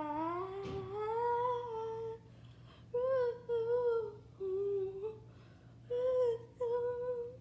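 A child singing a drawn-out, mostly wordless tune: one long note gliding upward for about two seconds, then five short held notes with pauses between them.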